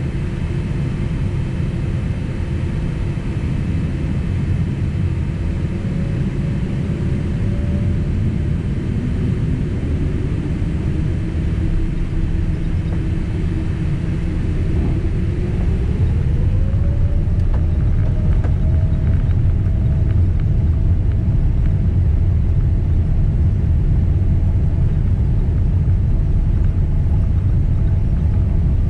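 Boeing 767 jet engines heard from inside the cabin: a steady low rumble with an engine tone that climbs quickly about halfway through, after which the rumble grows louder, as the engines spool up toward takeoff thrust.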